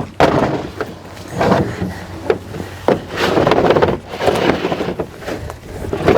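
Several sharp knocks and clunks of equipment being handled, with wind noise on the microphone between them.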